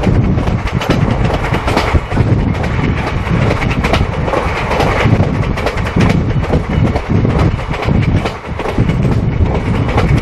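Passenger train running at speed. Its wheels clatter over the rail joints over a steady rumble and rushing air.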